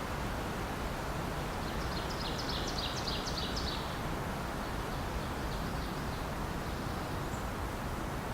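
Steady wind noise rushing through the trees. A small songbird sings one rapid, high, twittering phrase about two seconds in, fading out a couple of seconds later.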